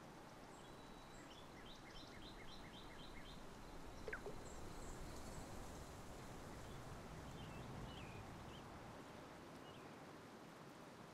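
Faint bird chirps over steady background noise: a quick run of about seven notes a couple of seconds in, then scattered single chirps.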